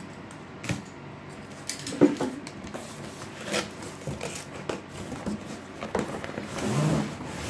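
A cardboard box and its packaging being opened and handled: scattered clicks, knocks and rustles, with a sharp knock about two seconds in and a longer scraping rustle near the end.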